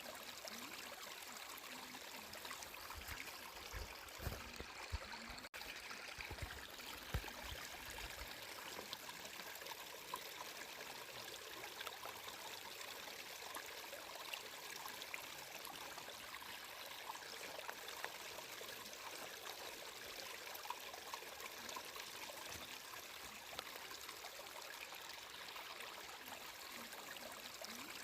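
Water in a small stream flowing steadily, a continuous splashing hiss, with a few brief low thumps between about three and eight seconds in.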